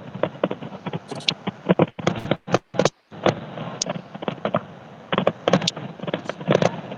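Fireworks crackling: rapid, irregular sharp pops and cracks, which break off briefly about two to three seconds in.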